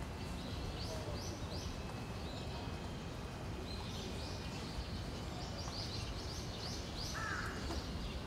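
Birds chirping in short, repeated high notes in small runs, over steady low background noise, with one lower, harsher call about seven seconds in.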